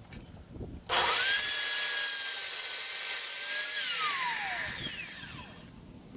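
Electric handheld wood router switched on, spinning up to a steady high whine, running for about three seconds, then switched off and winding down with a falling pitch.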